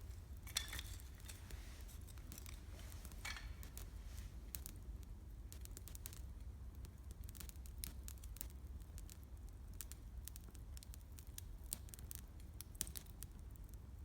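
Wood campfire crackling: irregular sharp pops and snaps of burning firewood, with a steady low rumble underneath.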